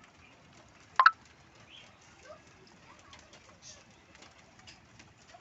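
Birds chirping and calling, short scattered calls with a few pigeon-like coos. About a second in there is one loud, sharp double sound, much louder than the calls.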